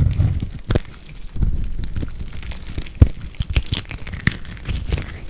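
Dry soap crumbling and crackling as it is crushed and cut, a dense run of small crunches with a sharp crack under a second in and a louder one about three seconds in.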